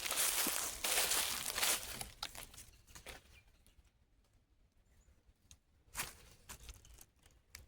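Rustling and crunching of footsteps through dry fallen leaves for about two seconds, then a few scattered crackles of leaves and twigs, with one sharper crackle about six seconds in.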